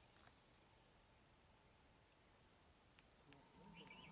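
Faint, steady high-pitched chirring of insects in the forest.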